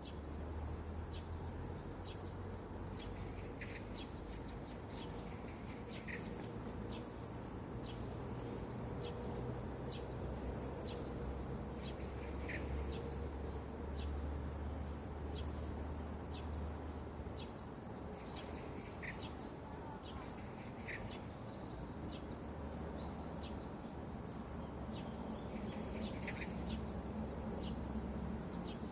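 Wild birds calling in the early morning: a short high note repeated about once a second, with a few lower calls mixed in, over a steady low rumble.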